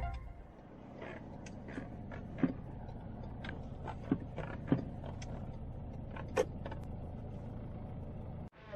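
Low, steady background noise with scattered light knocks and clicks, about eight in all, irregularly spaced; the sound cuts out briefly near the end.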